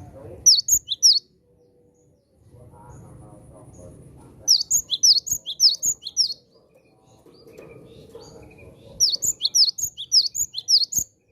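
Cinereous tit (gelatik batu) singing: three bursts of quick, sharp, repeated high whistled notes, a short one near the start, a longer one about four seconds in and another about nine seconds in.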